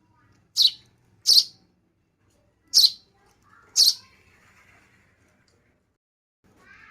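Baby bird giving four short, high-pitched chirps over about three seconds.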